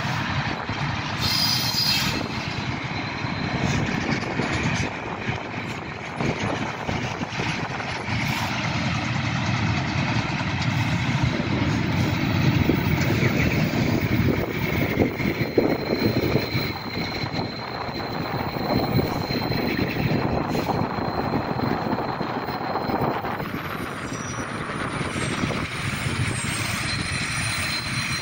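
Freight train hauled by an Sr2 electric locomotive moving slowly into a station, a steady rumble with scattered clicks. A faint high whine is heard for several seconds around the middle.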